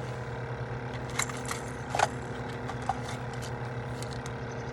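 Plastic lure packages and tackle being handled, giving a few sharp clicks and crinkles, the loudest about two seconds in, over a steady low hum.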